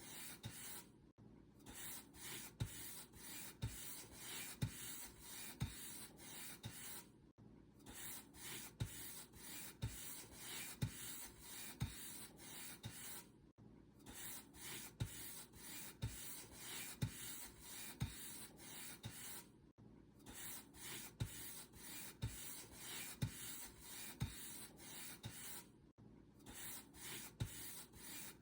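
Paint brush bristles stroking back and forth across a surface, about one stroke a second, each stroke with a soft low knock. A brief pause breaks the strokes about every six seconds.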